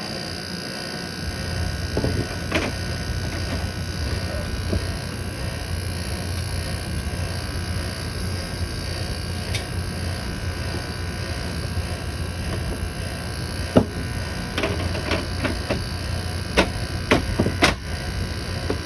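Window air conditioner running: a steady fan hiss, with the compressor's low hum coming in about a second in. Several sharp clicks and ticks in the last few seconds.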